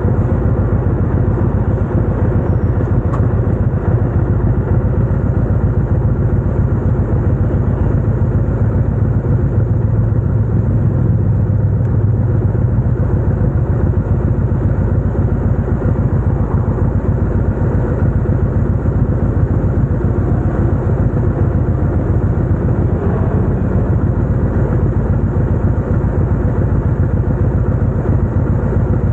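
Chopper motorcycle's engine running steadily at an even level, with a continuous rapid pulsing exhaust note.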